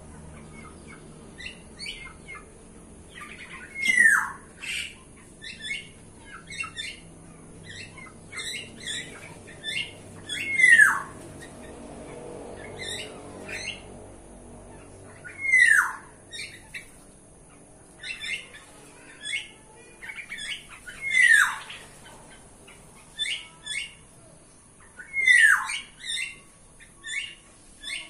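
Caged birds calling: a loud call that slides downward in pitch comes five times, about every five seconds, amid many short, high chirps and notes.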